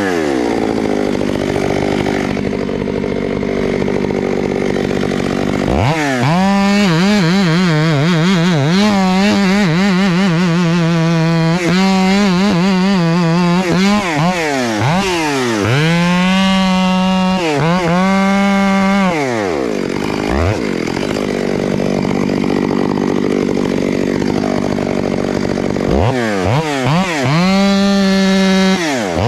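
Chainsaw cutting timber: it idles, then revs to full throttle about six seconds in and runs under load with its pitch dipping and recovering for some thirteen seconds, drops back to idle, and revs up again near the end.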